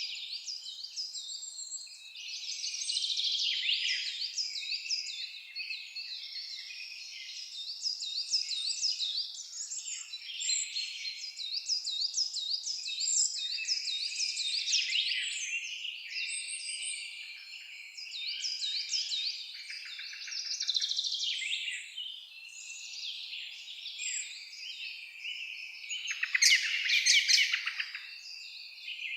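A chorus of forest songbirds singing at once: many overlapping chirps, trills and whistles. A louder, harsher burst of calls comes near the end.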